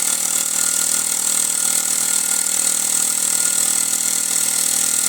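Mamod SW1 toy steam wagon's steam engine running, with a steady loud hiss of steam. Water has flushed through the oil that had soaked it, and it sounds a bit better now.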